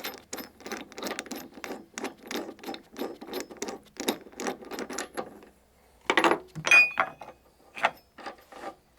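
Wrench working a nut off a car's strut top mount with a steady metallic clicking, about three clicks a second, for about five seconds. Then a few louder metal clanks, one of them ringing briefly.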